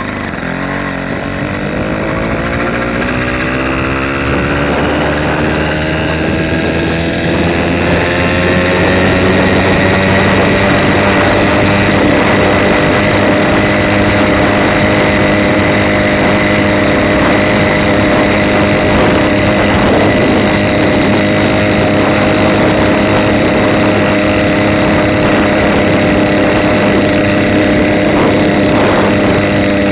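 Small motorized-bicycle engine pulling away, its pitch rising over the first ten seconds or so as the bike speeds up, then running steadily at cruising speed.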